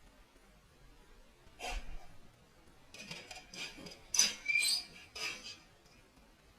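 Hand tools working on metal parts of a water heater: a single scrape about a second and a half in, then a run of short squeaky scrapes over about three seconds.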